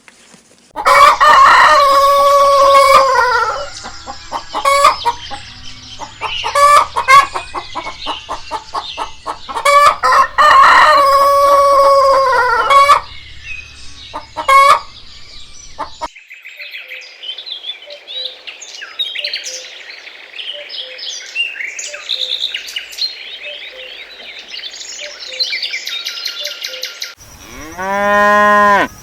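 Chickens: a rooster crows twice, long calls about eight seconds apart, with hens clucking around them. After that comes about ten seconds of softer, busy high chirping and cheeping, and near the end a single short call that rises and falls.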